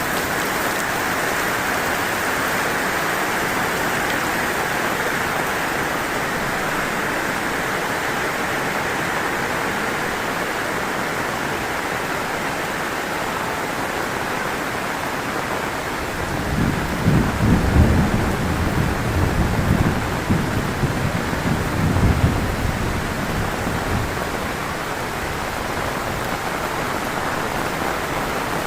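Heavy rain falling steadily. A little past the middle, a low rumble of thunder swells and rolls on for several seconds.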